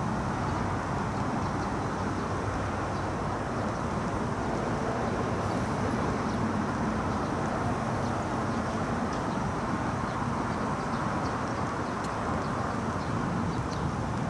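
Steady outdoor rumble of a rail depot as an 800 series Shinkansen train creeps in slowly on the yard tracks, with faint light clicks in the second half.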